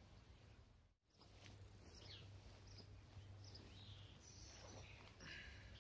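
Near silence: faint outdoor ambience with a few distant bird chirps. The sound drops out completely for a moment about a second in.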